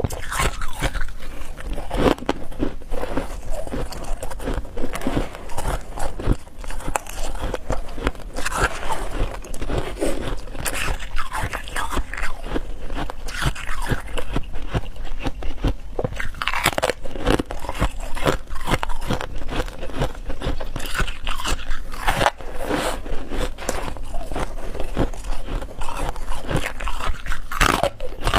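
A person biting and chewing hard ice, with dense, irregular crunching and cracking that goes on without a break.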